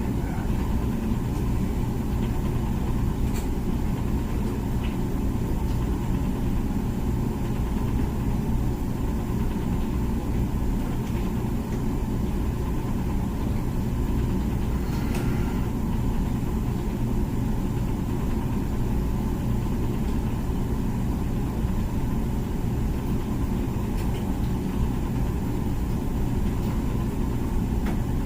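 Comfee dishwasher running with a steady low hum and rumble, a few faint ticks over it.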